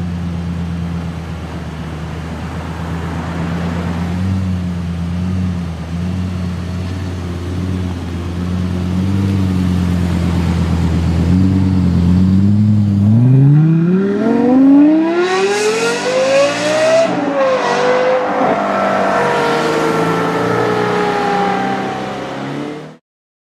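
A sports car's engine idling steadily, then accelerating hard about halfway through with a rising engine note. The pitch then settles and falls slowly as the car pulls away, and the sound cuts off near the end.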